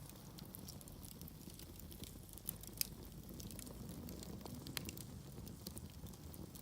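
Wood fire in a fireplace burning: a low rumble of flames with irregular sharp crackles and pops, the loudest pop about three seconds in.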